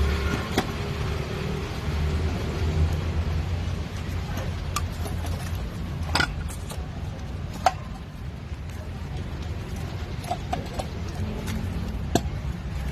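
Scattered sharp metal clinks and taps from automatic transmission parts being handled and fitted, a few single strikes several seconds apart, over a steady low hum.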